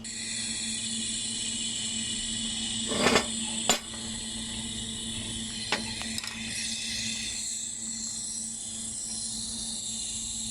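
3000 W laser welding machine welding 6 mm carbon steel: a steady hiss that starts at once, over a constant low hum. A loud burst of crackle comes about three seconds in, with a sharp pop just after and a smaller pop near the middle.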